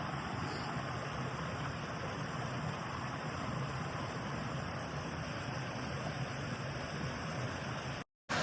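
Steady rushing of flowing water from a creek or cascade, an even hiss with no breaks, cutting off abruptly near the end.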